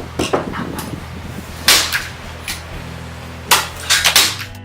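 Several sharp knocks or clacks, one about a third of the way in and three close together near the end, over a low steady hum.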